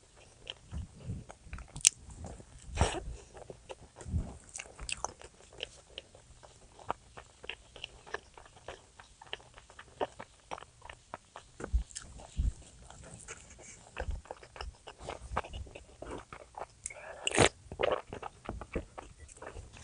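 A person eating up close: chewing and biting food, with many small crunchy clicks and mouth smacks.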